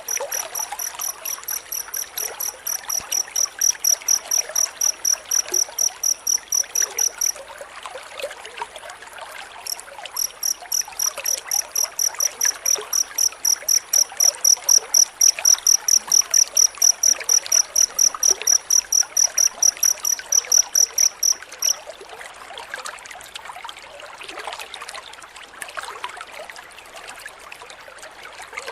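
Field cricket chirping in rapid, evenly spaced high-pitched pulses, about four a second, with a pause of a few seconds about a third of the way in, stopping a little after two-thirds through. Behind it runs a steady trickle of water.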